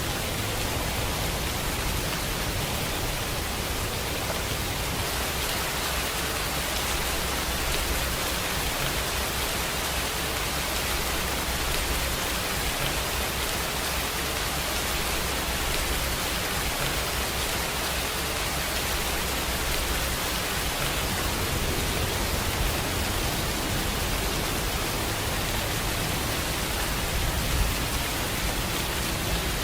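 Steady heavy rainfall, an even hiss of rain on surfaces with a low rumble underneath.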